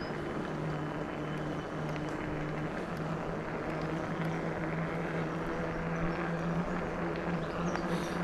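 E-bike on the move: a steady low buzzing hum, broken at first and steady after a few seconds, over a continuous rush of wind and tyre noise.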